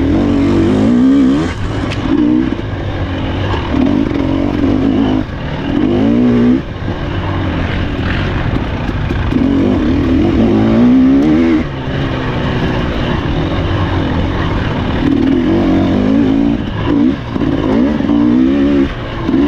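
Husqvarna TE300 two-stroke dirt bike engine revving hard, its pitch rising and falling again and again with brief drops in throttle every few seconds, as the bike is ridden off-road.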